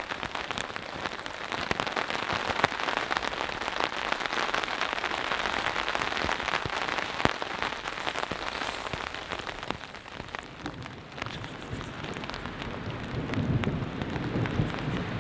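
Steady rainfall, a continuous hiss dotted with many separate drops ticking.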